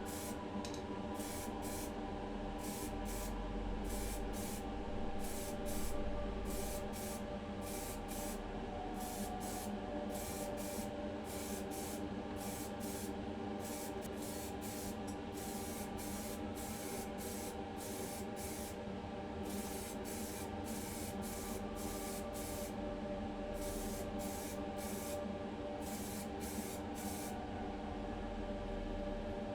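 Primer being sprayed onto a small die-cast car body in many short, irregular hissing bursts, over a steady humming drone.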